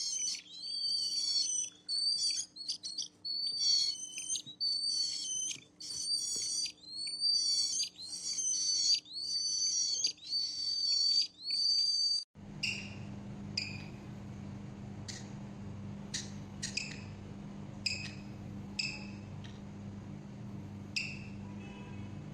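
A parrot giving a run of loud, high-pitched calls, about one a second, each with a sharp falling hook. About twelve seconds in, these give way to a steady low hum with short, sharp high ticks spaced irregularly.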